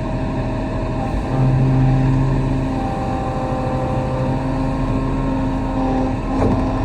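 Kobelco SK35 excavator's diesel engine running steadily as the machine digs, with a louder, deeper drone from about one to three seconds in.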